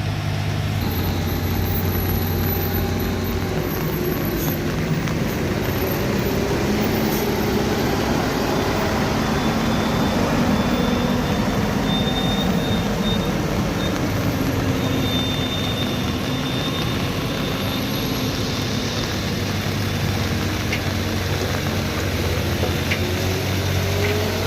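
Heavy truck engine running under load, its pitch slowly rising and falling, over steady road noise.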